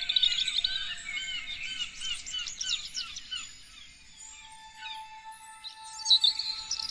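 Several songbirds singing and calling at once, with overlapping rapid chirps, whistled sweeps and trills. The chorus is busiest in the first few seconds, thins out in the middle, and swells again near the end.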